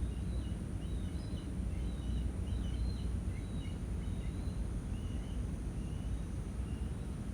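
Small birds chirping in quick, short twitters over a steady low rumble. The chirps thin out and stop near the end.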